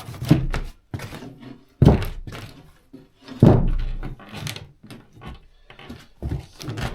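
A series of dull thunks and knocks, with two heavier thuds about two seconds and three and a half seconds in.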